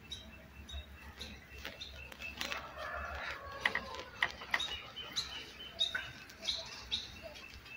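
Birds chirping on and off in short, high calls, with a few faint clicks in between.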